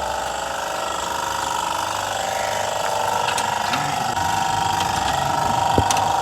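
A machine motor running steadily with a high, even hum, and a few sharp metallic clicks near the end.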